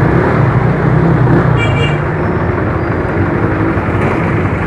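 Yamaha Mio One automatic scooter underway, its single-cylinder engine humming steadily under wind and road noise on the helmet-camera microphone. A short high-pitched beep sounds about a second and a half in.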